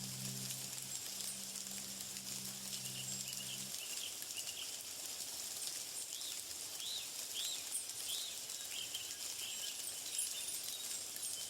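Small birds chirping in short, arched notes over a steady high hiss; a low steady hum stops about four seconds in.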